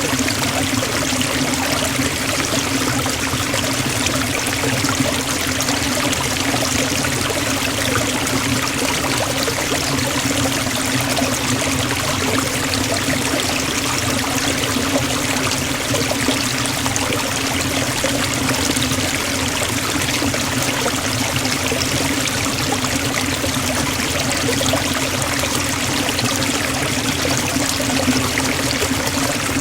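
Waterfall and its stream: water falling and rushing in a steady, unbroken roar.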